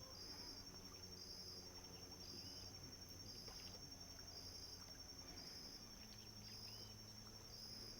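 Faint insects calling: a steady high-pitched trill with a regular chirp repeating about once a second.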